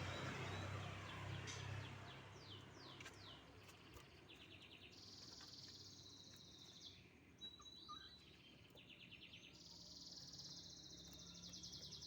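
Canary singing faintly: a few quick downward-sliding notes, then several fast rattling trills, with a short steady whistle between them. A low hum underlies the first two seconds.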